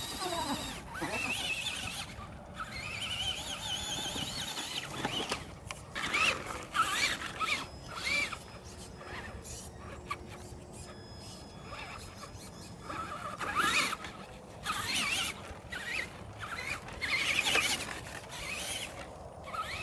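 Traxxas electric RC truck's motor whining in bursts, its high pitch swooping up and down as the throttle is worked.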